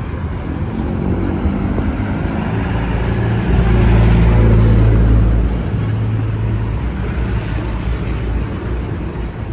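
A motor vehicle's engine passing close by on a street. It builds up, is loudest about four to five seconds in, then fades back into the traffic noise.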